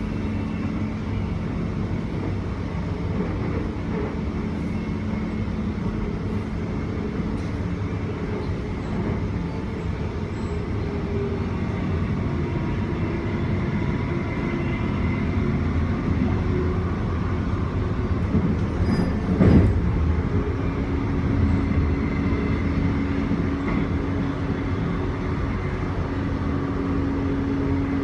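Interior running noise of a Queensland Rail electric suburban train at speed: a steady rumble of wheels on track, with a single loud clunk about two-thirds of the way through, after which a steady hum joins in.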